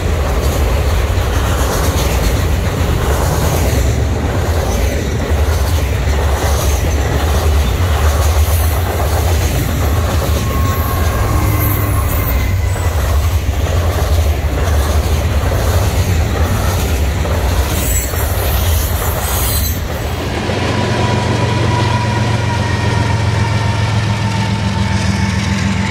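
Freight train rolling past at speed: steady rumble and clatter of wheels on rail, with a brief wheel squeal about halfway as a mid-train diesel locomotive goes by. About three-quarters of the way in, the sound changes to a steadier hum with held high tones.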